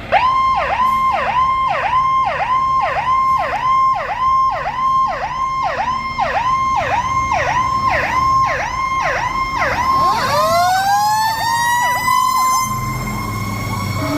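Fire apparatus siren in yelp, a fast rising-and-falling warble about two and a half cycles a second. About ten seconds in, a second siren rises slowly in pitch and holds a steady tone as the yelp fades out.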